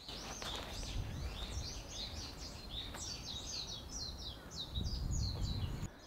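Small forest birds chirping, a rapid run of many short, high, falling notes, over a low outdoor rumble.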